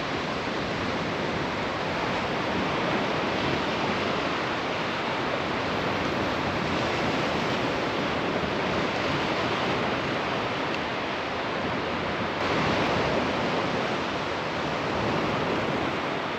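Surf washing on the beach: a steady rush of waves with no breaks, with some wind on the microphone.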